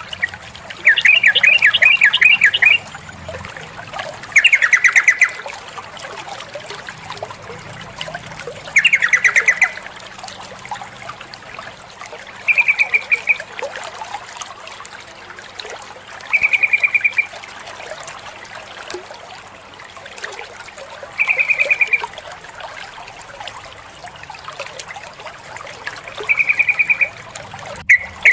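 Female yellow-vented bulbul (trucukan) giving short, rapid chattering calls: seven phrases, the first three longer and the later ones shorter, spaced a few seconds apart. Under them runs a steady trickle of water.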